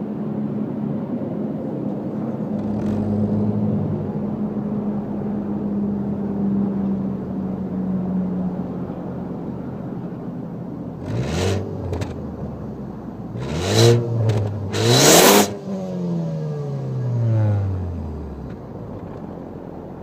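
Ford Focus ST's turbocharged EcoBoost four-cylinder engine idling steadily, then revved in three quick throttle blips about 11, 14 and 15 seconds in, the last the highest and loudest, before the revs fall back to idle.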